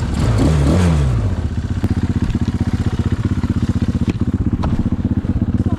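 Engine of a small off-road vehicle idling with an even putter, revved up and back down once shortly after the start.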